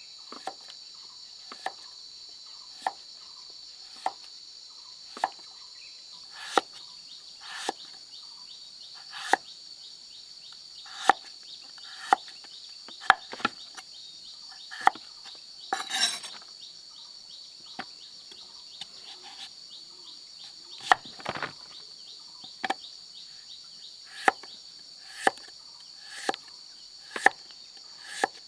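Steady high-pitched insect chorus, crickets or cicadas, with sharp knocks about once a second, a little uneven, from some hand work being done by one person.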